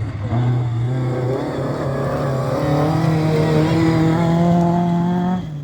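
Rally car engine under hard acceleration, its note climbing steadily in pitch, then dropping suddenly near the end.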